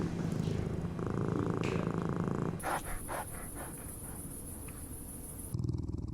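A small puppy making a low, rapidly pulsing rumble, cut together from a few short clips, with a few light clicks about three seconds in.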